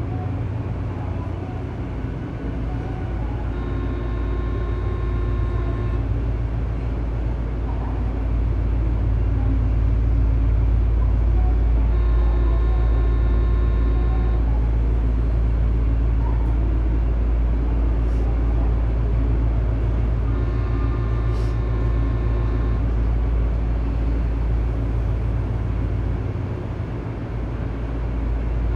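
Tobu 9000 series electric train running, heard from inside car MoHa 9204 above its armature chopper, which makes an abnormal noise. There is a steady low drone, and a set of steady higher tones comes and goes about every eight seconds.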